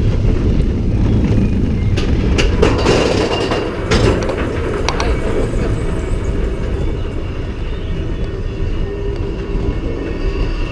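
Theme-park ride train rolling along its track: a steady low rumble with a run of rattling clacks a couple of seconds in, and a steady mechanical hum coming up near the end.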